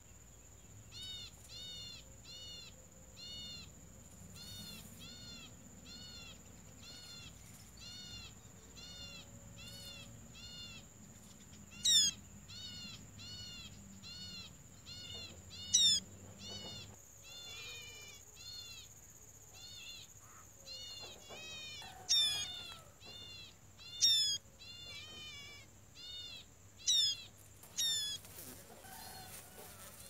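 Birds calling: a steady run of short chirping notes about two a second, broken by louder, sharply falling whistles about six times. A steady high-pitched insect drone runs underneath.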